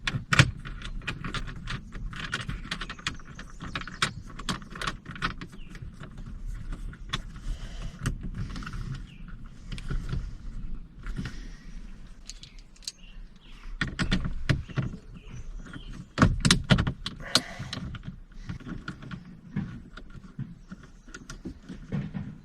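Irregular clicks, knocks and rattles of small metal and plastic parts and tools being handled, with rustling between them, as a dash phone and camera mount is fitted. The knocks come thickest and loudest in a cluster about two-thirds of the way through.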